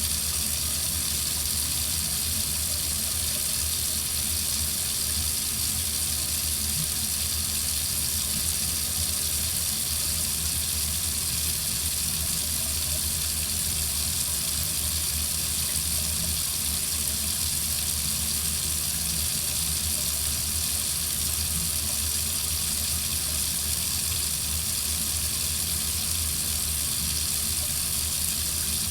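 Water running steadily from a faucet into a sink, an even, unbroken hiss.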